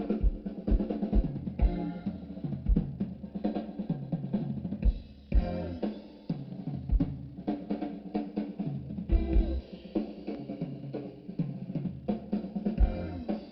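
Live blues band playing an instrumental passage, with a drum kit's kick and snare hits keeping a steady beat under sustained pitched instrument notes and a moving bass line.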